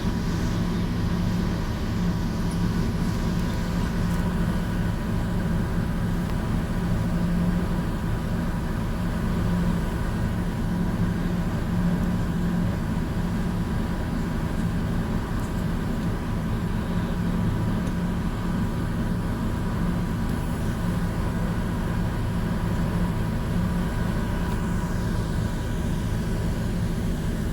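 A ferry's engine droning steadily, heard on board: an even low hum with a few faint steady tones above it.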